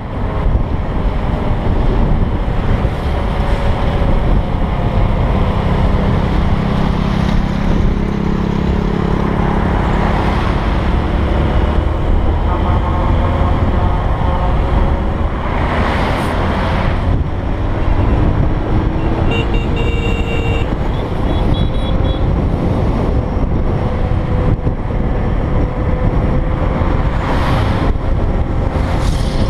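Honda XR125 motorcycle engine running while riding, its note rising and falling, under a heavy low rumble of wind and road noise. A couple of short horn beeps from other traffic sound around the middle.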